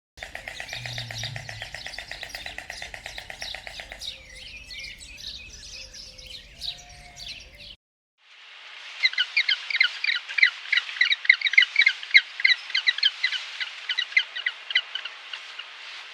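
Birds chirping in rapid, high-pitched twittering calls. The sound comes in two separate stretches, broken by a moment of silence about eight seconds in; the second stretch is the louder.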